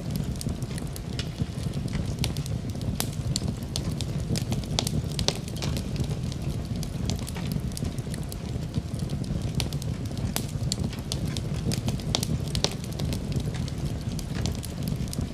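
Fireplace fire crackling steadily, with frequent sharp pops and snaps over a low rumble of flames.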